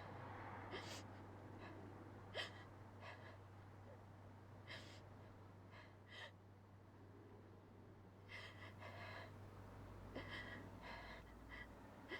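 Quiet room tone with a low steady hum, broken by faint, short, intermittent breaths.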